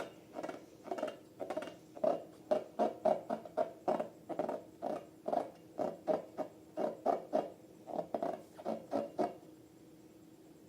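Slime being squished and worked by hand: a quick run of short, sticky squelches, about three a second, which stop about a second and a half before the end.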